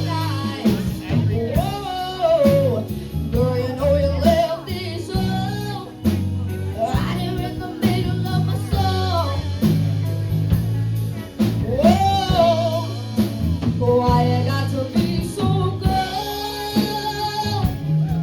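Live band playing a song, with a singer's melody gliding over electric guitar, bass and drum kit.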